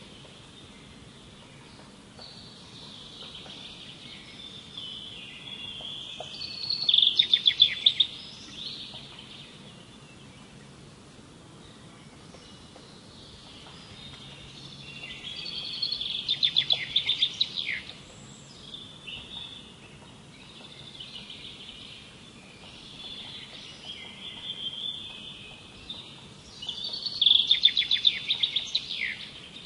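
A songbird singing: phrases of quick high notes that build to a loud, rapid trill, three times about ten seconds apart, with softer twittering between.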